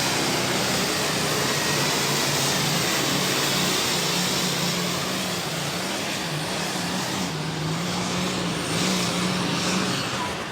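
Diesel super stock pulling tractor running hard down the track, its engine note wavering up and down with a high whine above it. The sound starts to fade near the end.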